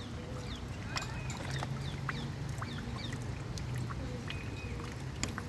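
Birds chirping and peeping over and over in short, quick, falling calls, over a low steady hum.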